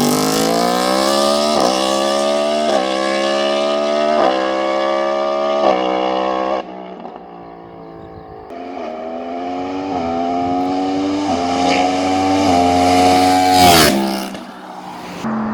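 Yamaha R1M's crossplane inline-four through an SC Projects exhaust, accelerating hard up through the gears. Each upshift is a short break in the rising engine note, about once a second. The sound falls away briefly, then comes back with another run of upshifts and ends in a loud pass close by, with the pitch dropping.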